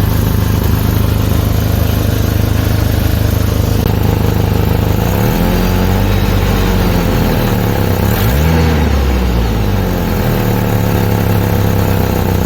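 Truck engine idling with an exhaust leak, revved up and back down twice in the middle, then settling back to idle.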